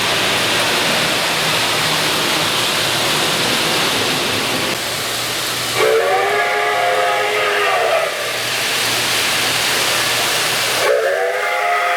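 Sound-equipped model steam locomotive hissing steam, then blowing its chord whistle twice: one blast about six seconds in lasting about two seconds, a second starting near the end.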